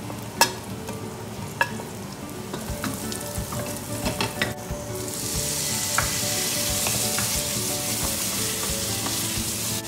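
Chopped vegetables frying in hot ghee in a stainless steel pressure cooker, stirred with a wooden spatula: sizzling with sharp clicks and taps of the spatula against the pan. About halfway through the sizzle turns much louder and hissier as the potato pieces, kept in water, go in.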